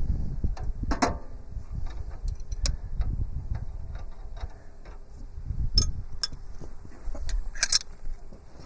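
Hand tools working the steel sub-frame bolts and nuts on a Kubota B7100 tractor: irregular metallic clicks and knocks, with one ringing clank about a second in and a cluster of sharper clicks near the end.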